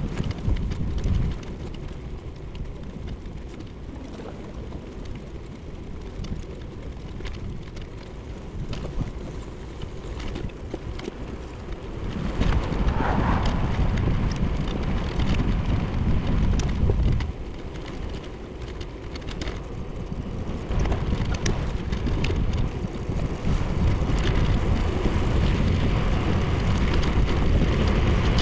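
Wind buffeting a bicycle-mounted action camera's microphone while riding, a continuous rumble with scattered small ticks. It swells louder about halfway through, eases, then rises again near the end.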